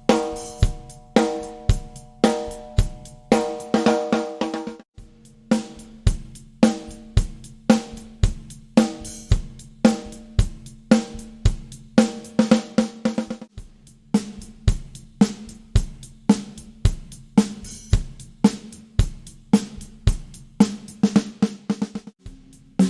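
Drum kit played in a steady groove of snare, bass drum and hi-hat/cymbal, with a few short fills, the snare being a fiberglass Monolith snare drum. The drums ring on in clear pitches between strokes.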